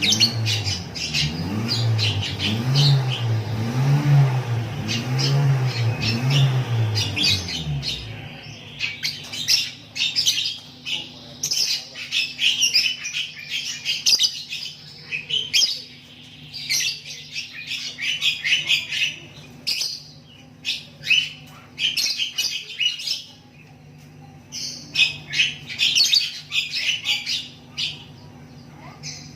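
Lovebird chattering and squawking in rapid runs of shrill chirps, on and off throughout. For the first eight seconds or so a low wavering hum, rising and falling about once a second, runs underneath and then stops.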